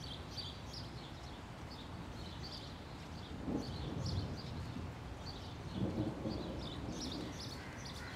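Birds chirping, short high calls repeating again and again over a low, steady outdoor background.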